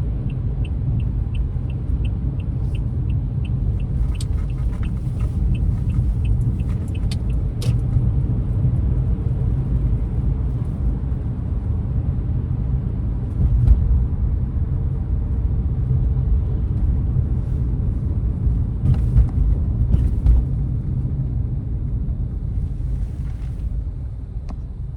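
Steady low rumble of a car driving, heard from inside the cabin, with a turn-signal indicator ticking evenly for about the first seven seconds. A few sharp clicks come now and then.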